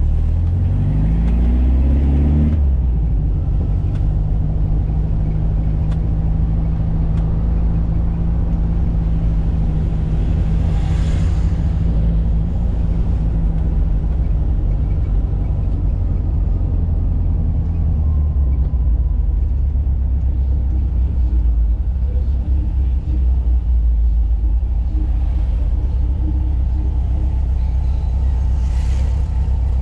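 1985 Volkswagen Fusca (Beetle) air-cooled flat-four engine driving on the road. Its pitch rises for about two seconds as the car accelerates, drops at a gear change, then runs steadily under road noise. A whoosh swells and fades twice.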